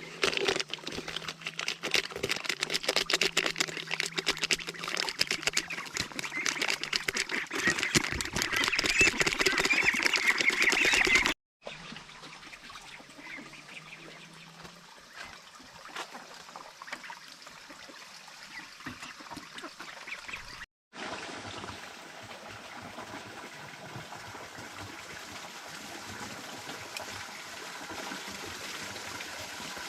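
A flock of ducks quacking loudly in a dense, busy chatter. After a sudden cut the sound drops to a quieter mixed background, and in the last third a steady sizzle of food frying in a pan sets in.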